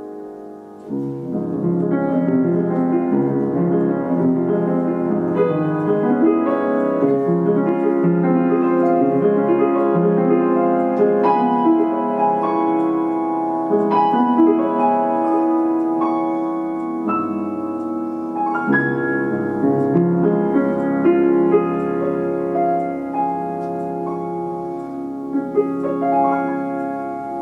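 Background piano music: a slow piece played on piano, coming in about a second in and softening near the end.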